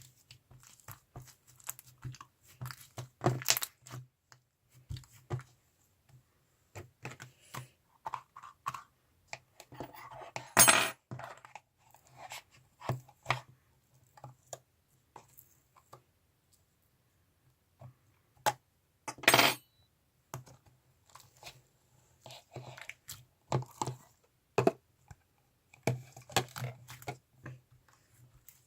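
Slime being handled by hand: an irregular run of small sticky clicks and crackles, with louder noisy squishes about 3, 11 and 19 seconds in. A faint low hum sits underneath.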